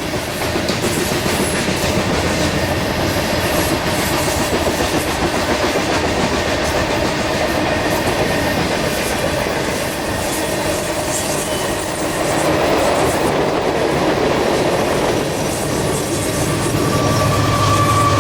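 Loaded BNSF coal hopper cars rolling past, with a steady rumble and the clickety-clack of wheels over the rail joints. A steadier humming tone joins in near the end.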